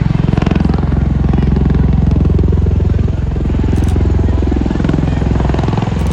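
Loud aircraft engine noise: a steady low rumble with a fast, even flutter.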